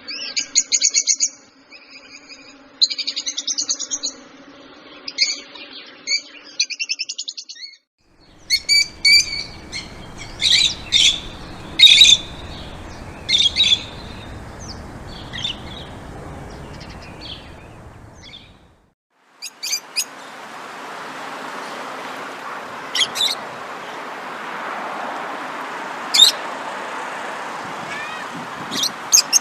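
Songbirds chirping in three separate recordings spliced together, with a brief silence at each cut. The first has rapid, dense chirping over a low hum; the second has loud, sharp chirps over background noise; the third has scattered sharp chirps over a steady hiss.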